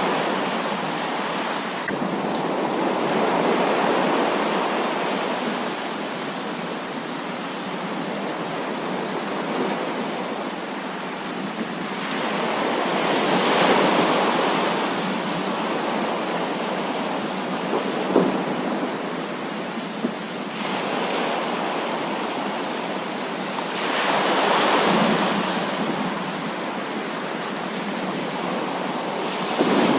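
Heavy rain pouring steadily, swelling louder in waves several times, with one sharp tap about eighteen seconds in.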